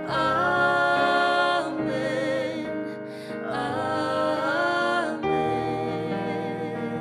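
Slow worship song: a singer holds two long notes with vibrato over sustained chords that change every few seconds.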